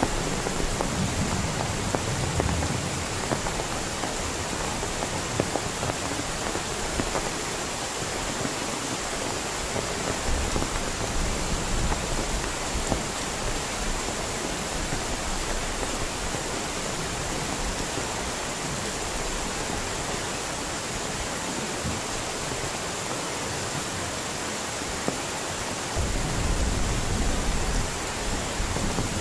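Heavy rain falling steadily, a dense hiss of countless drops. A low rumble swells at the start and again briefly near the end.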